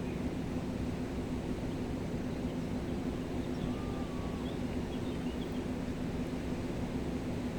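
Fast-flowing mountain river rushing steadily, a low, even roar. A few faint bird chirps come through about three to four seconds in.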